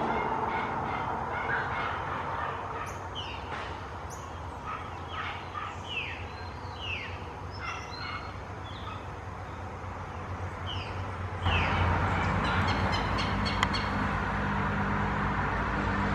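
Wild birds calling: a series of short, downward-sliding chirps. About two-thirds of the way in, the sound changes suddenly to a louder, steady low hum with a few quick clicks.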